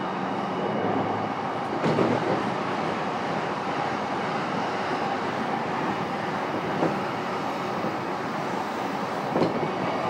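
Interior running noise of a JR East E233-3000 series electric train travelling at speed, heard inside a motor car: a steady rumble of wheels on rail with a few wheel clacks over rail joints, about two seconds in, near seven seconds and again near the end.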